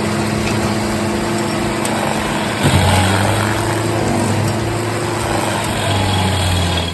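Stump grinder's engine running steadily under a dense hiss of wood being ground. About two and a half seconds in there is a knock, and the engine note then shifts and comes in stronger.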